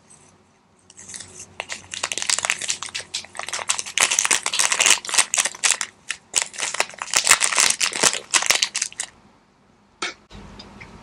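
Close-miked eating: dense, crackling crunches and wet chewing clicks in two long runs with a short pause between, stopping about a second before the end.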